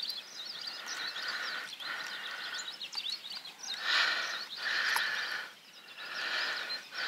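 Birds chirping and calling, many short overlapping calls in stretches broken by brief pauses.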